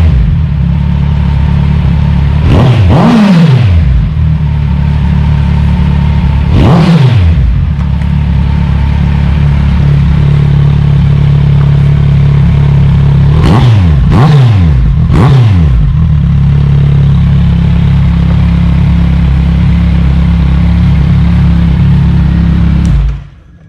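Kawasaki Z1000R's inline-four engine idling loudly through an exhaust with its left stock muffler removed, revved in short throttle blips that rise and fall about seven times, three of them in quick succession, then shut off near the end.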